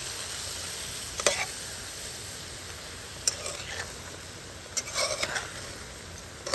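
Chicken sizzling as it browns in a hot pot with brown sugar, with a spoon knocking and scraping against the pot a few times.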